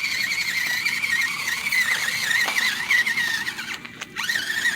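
Enduro24 Sendero 1/24-scale RC crawler's small electric motor and gear drive whining at a high pitch, the pitch wavering with the throttle as it crawls over rocks. The whine cuts out briefly near the end and then picks up again.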